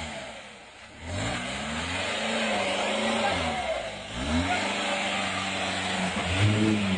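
Off-road 4x4 Jeep's engine revving hard in repeated surges as it claws up a muddy rut, the pitch climbing and dropping several times after a short lull in the first second.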